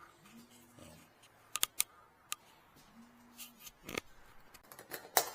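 A few sharp clicks and knocks of faucet parts and fittings being handled, three in quick succession about a second and a half in and single ones later, with a faint steady hum coming in twice for under a second.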